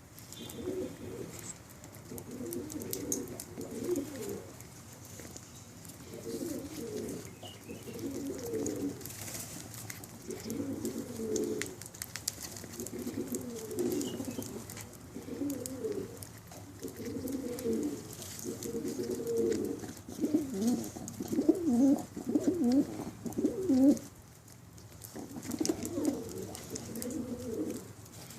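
Pigeons cooing in a continuous string of low, warbling coos, one phrase after another, with a brief lull near the end.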